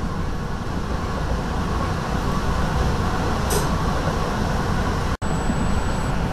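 Steady rumble of an NJ Transit Comet IV passenger coach rolling along the track, heard from inside the car. A brief high hiss comes about three and a half seconds in, the sound cuts out for an instant about five seconds in, and a faint high whine follows.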